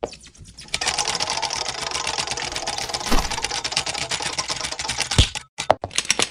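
Oriental magpie-robin (kacer) singing a fast, dense rattling chatter, with two short louder notes about halfway and near the end, and a break about five seconds in.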